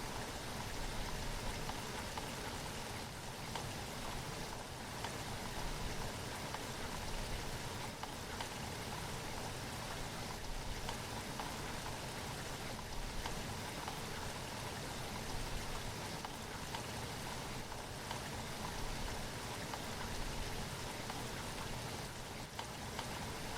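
Steady rainfall, an even hiss of rain with scattered drops pattering on a surface.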